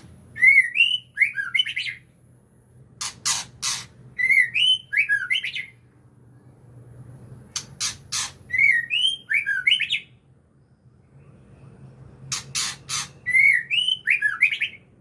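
White-rumped shama (murai batu) calling in repeated phrases about every four to five seconds: a few short harsh rasping notes, then a quick run of whistled notes that glide up and down.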